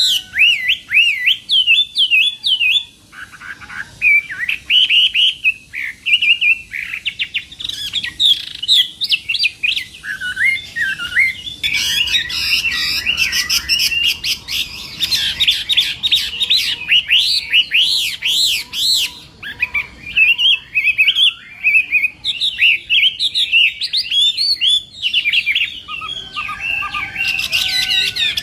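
Chinese hwamei singing a loud, continuous run of quick, rising-and-falling whistled notes, with a short lull about three seconds in.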